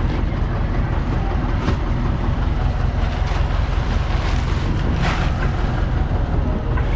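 Farm vehicle engine running steadily with a low rumble, with some wind noise on the microphone.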